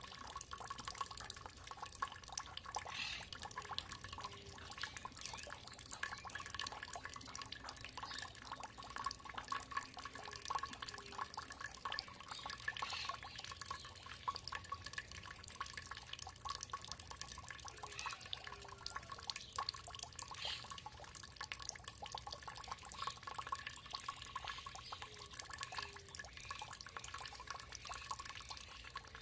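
Water trickling and dripping steadily, a continuous patter of many small drops and splashes.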